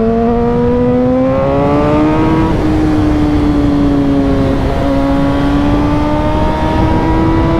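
Suzuki motorcycle engine pulling hard in a low gear, its pitch climbing for the first couple of seconds, easing slightly, then rising again, with wind rushing past.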